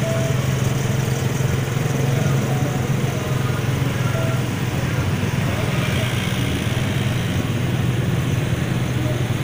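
Motorcycle and float-vehicle engines running steadily as the procession drives along the road, a constant low drone with road noise over it.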